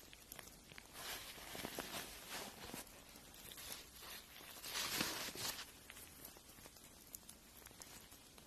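Fingernail being filed, in irregular scratchy strokes with small clicks, the loudest stroke about five seconds in.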